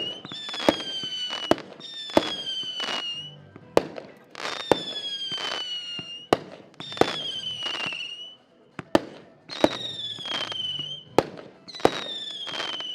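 Xplode Relax consumer firework battery firing. Sharp launch and burst cracks are joined every second or two by a shrill whistle that slides down in pitch for about a second and ends in a bang.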